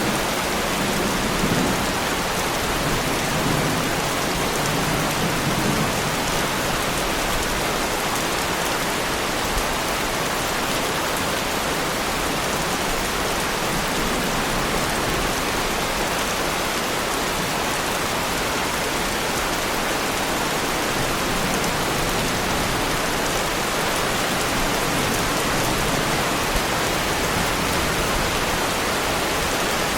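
Heavy rain falling steadily on the body of a Lamborghini Huracán, a dense, even patter with no let-up. A low rumble sits under it in the first few seconds.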